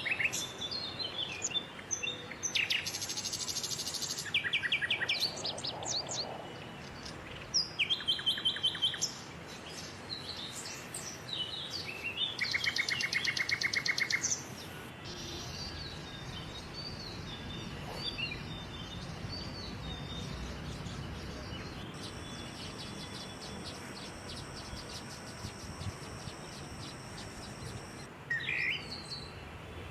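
Small birds chirping and trilling in quick bursts of varied calls, busiest in the first half. Later there are fainter calls over a low background hum and a steady high-pitched buzz lasting several seconds.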